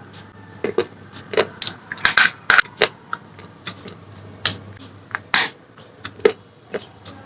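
Slate pencils being bitten and chewed close to the microphone: irregular, crisp crunches and cracks, the loudest clustered around two seconds in and again around four and a half to five and a half seconds in.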